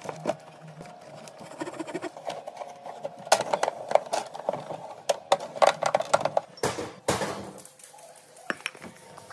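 Items being put into a mini fridge: a run of light clinks and knocks, with a short swish about seven seconds in.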